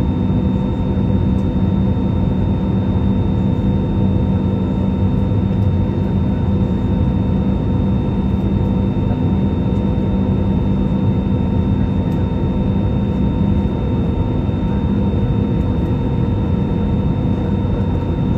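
Steady drone of an airliner cabin in flight: engine and airflow noise with a low rumble and a few constant whining tones.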